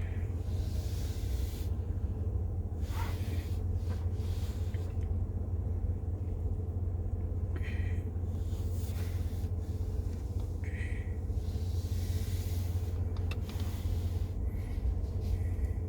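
A steady low hum, with a few soft, brief rustles here and there.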